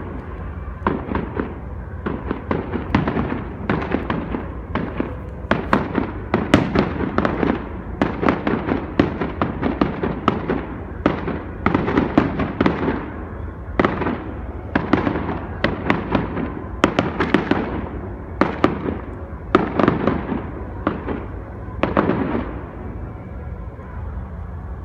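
Fireworks going off in a dense, continuous string of sharp bangs and crackles, several a second.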